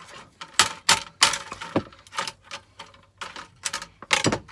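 Irregular sharp knocks and cracks, about half a dozen loud ones, as a component is knocked off a scrap circuit board to get at its brass pins.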